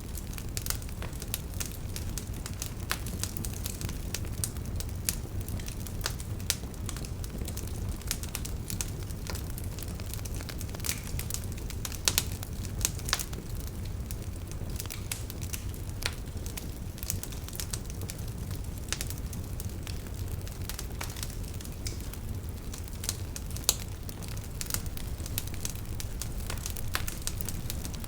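Campfire burning, with irregular crackles and sharp pops over a steady low rumble of flames.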